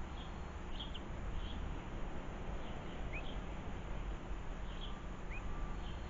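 Small garden birds calling with short, high chirps scattered throughout, including two brief rising notes, over a steady low background rumble.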